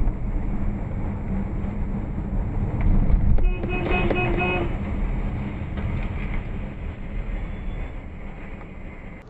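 Steady road and engine noise of a moving car, with a horn sounding once for about a second near the middle.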